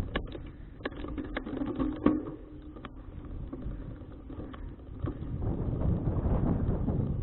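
Wind buffeting an action camera's microphone during a bicycle ride, a low rumbling noise, with a string of sharp clicks and knocks over the first three seconds. The wind noise builds again from about five seconds in.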